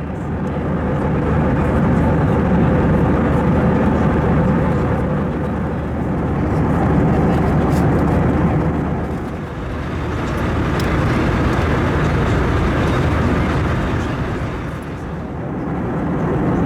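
Steady jet engine and airflow noise of an Airbus A321 airliner, heard from inside the cabin, dipping briefly in loudness twice.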